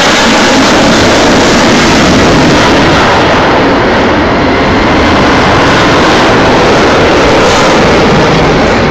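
Very loud jet noise from an F-15E Strike Eagle's twin turbofan engines during a low straight pass: a dense, steady rushing noise that eases slightly near the end.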